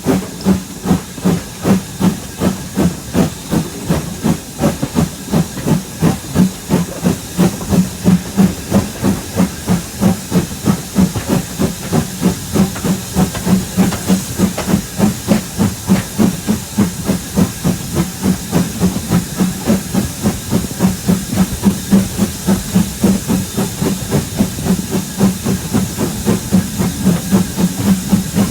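Steam locomotive working under steam: a steady run of regular exhaust chuffs, several a second, over a continuous hiss of steam.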